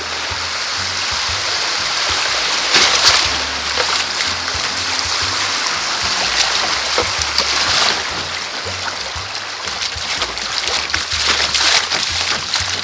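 Creek water rushing around a kayak through a riffle, a loud steady rush with splashes that swell about three seconds in, near eight seconds and again near the end.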